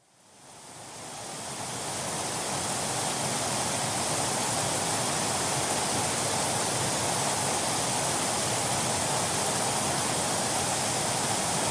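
Steady rush of cascading water from the Saluopa waterfall, fading in over the first couple of seconds and then holding level.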